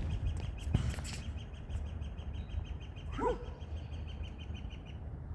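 Tennis ball struck twice near the start, a racket hit and the bounce off the practice backboard. About three seconds in comes a short pitched squeak that rises and falls.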